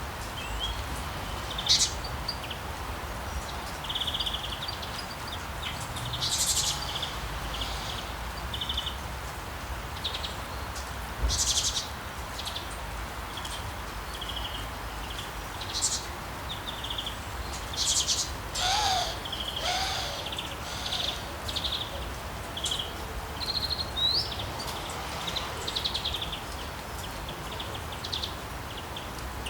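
Steady rain hiss with birds chirping over it: many short, high calls scattered throughout, and a pair of lower calls about two-thirds of the way through.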